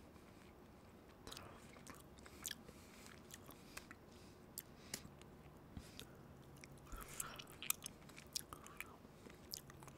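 A person chewing a small piece of steak: faint, irregular wet clicks and smacks of the mouth, coming more often in the last few seconds.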